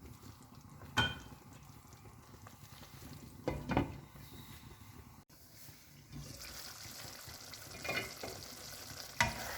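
Marunthu kuzhambu gravy simmering in a covered pot, a soft bubbling hiss that gets stronger about six seconds in, with a few light knocks of cookware.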